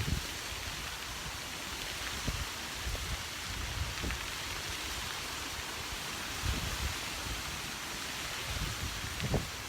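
Strong storm wind over surging water: a steady rushing hiss, with gusts buffeting the microphone as low rumbles a few times.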